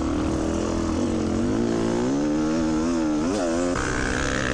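Dirt bike engine running under constantly changing throttle while riding through soft sand, its pitch rising and falling, with a quick sharp rev about three seconds in.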